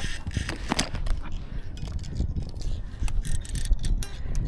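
A small baitcasting reel clicking irregularly under the strain of a big salmon on the line, over a steady low rumble.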